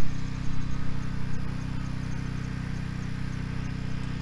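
A generator's engine running at a steady hum, with faint, regular high chirping of crickets.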